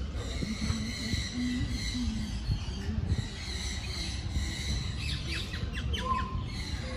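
African grey parrot calling, with a quick run of short squawks and a brief whistle about five to six seconds in, over steady low background noise.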